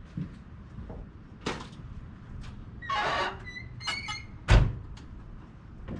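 A refrigerator being slid and handled: a knock, a squeaky scrape about three seconds in, then a heavy thunk, the loudest sound.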